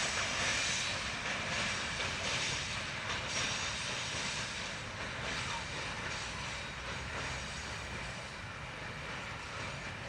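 Freight train rolling along the track, a steady rumble and rushing of wheels on rails that slowly fades as it draws away.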